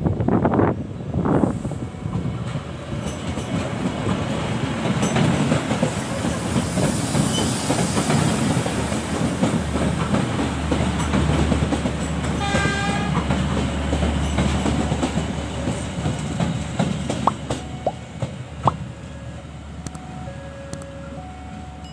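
Kedung Sepur diesel passenger train passing close by: engine drone and the steady rumble of wheels on the rails, with a short horn blast about twelve seconds in and a few clicks of wheels over rail joints later on. Wind buffets the microphone at the start.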